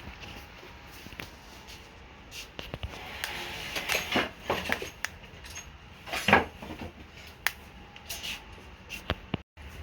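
Clicks and short bouts of clattering, like hard objects or tools being handled and set down, with the loudest clatter about six seconds in.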